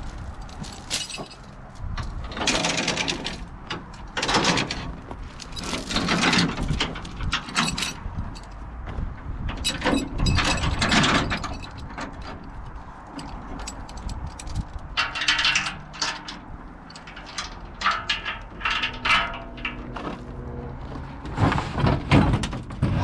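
Irregular metal clanking, rattling and creaking from an old Land Rover body being towed over rough ground, over a faint low engine hum.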